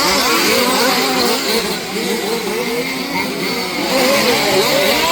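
Several 1/5-scale RC off-road race cars' small two-stroke petrol engines, revving up and down over one another as the cars race around the track.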